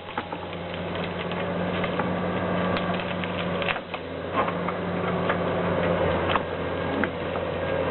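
An engine-driven machine running steadily with a low hum, with irregular clicks and knocks from its working parts.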